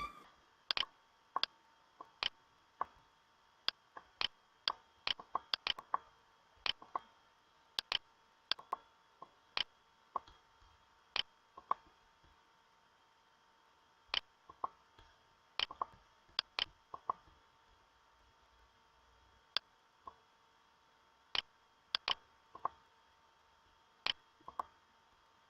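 Sharp, quiet clicks at irregular intervals, some in quick pairs, over a faint steady electrical hum.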